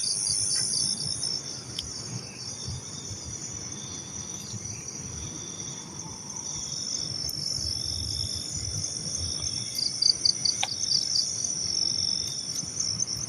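Night insects trilling: a steady, high-pitched chorus with overlapping pulsed chirps repeating throughout.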